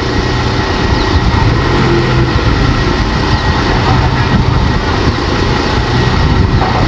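Heavy diesel machinery engine running steadily, a constant low drone.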